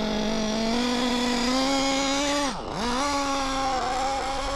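O.S. Speed AD3 nitro engine running at a steady mid pitch. About halfway through, the revs drop sharply and climb straight back. It is still tuned very rich during break-in.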